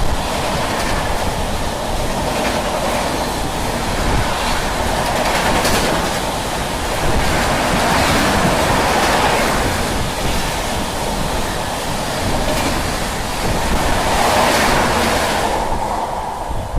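Freight train of BCNA covered wagons passing at speed: a loud, steady rushing rumble of wheels on rail with some clickety-clack. The noise eases off near the end.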